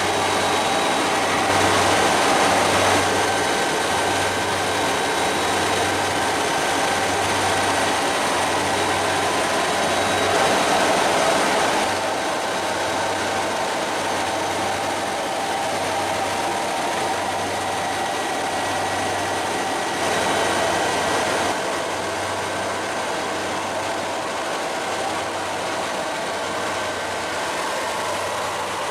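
Helicopter cabin noise in flight: a steady drone of engine and rotor with a faint high whine, over a low hum that pulses about once a second.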